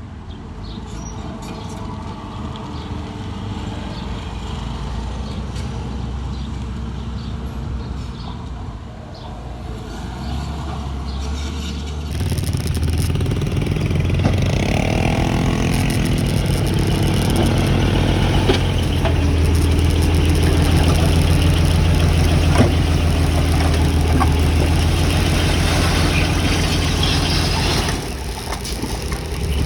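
Diesel engines of heavy construction machinery running at work. About twelve seconds in, the sound changes abruptly to a louder, closer engine whose pitch sweeps up and down for a few seconds, then holds steady until the level drops near the end.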